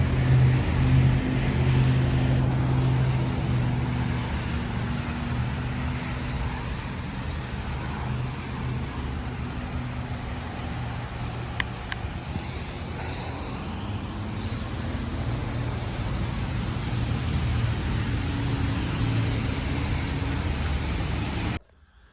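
A motor vehicle's engine running with a steady low hum, with road traffic noise around it; the engine tone is strongest at the start, then settles. It cuts off suddenly near the end.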